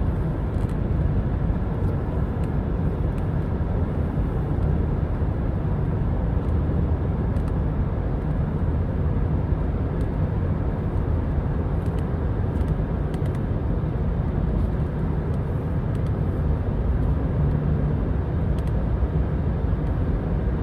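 Road and engine noise inside a moving car: a steady low rumble that stays even throughout.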